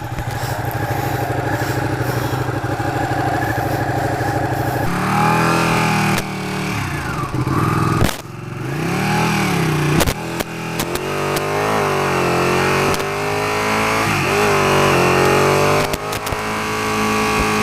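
2016 Ducati 959 Panigale's L-twin engine idling steadily, then about five seconds in pulling away, its revs rising and falling again and again as the bike accelerates and changes gear.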